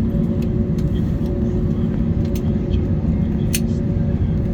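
Steady low rumble of an Airbus A321neo cabin with the aircraft under way, carrying two steady hum tones and a few faint clicks.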